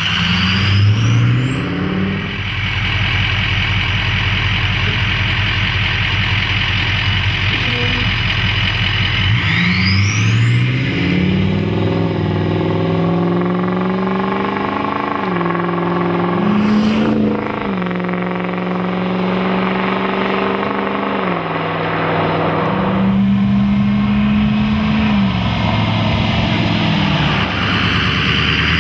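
The 2004 Ford F250 Power Stroke V8 turbo diesel running loud through a Flowmaster Pro Series stainless muffler. Engine speed climbs and then holds at several different steady pitches, stepping up and down, while a rising turbo whistle comes in with each climb, around the start, about ten seconds in, and near the end.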